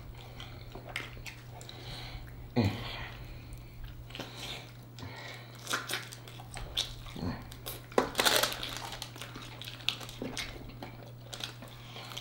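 Close-miked chewing and biting on sauced chicken wings: wet mouth clicks, smacks and sucking as meat is stripped off the bones, louder around two and a half and eight seconds in. A steady low hum runs underneath.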